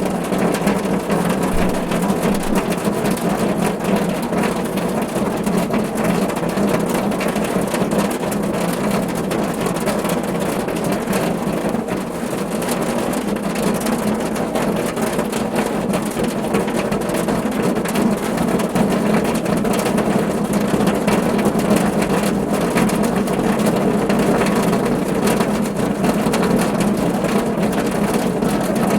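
Steady rain falling on a car: a dense, even patter of drops with no break.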